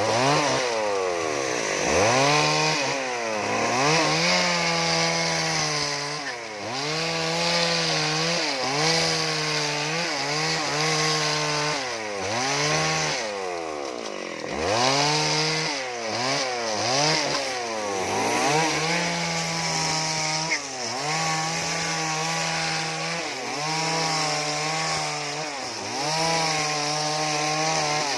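Two-stroke chainsaw cutting wood, its engine revving up to a steady high pitch and dropping back over and over as the throttle is squeezed and released.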